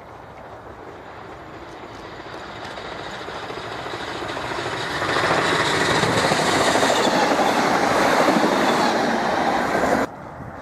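Train approaching and running past close by, its wheel-on-rail noise building for about five seconds and staying loud, then cutting off suddenly near the end.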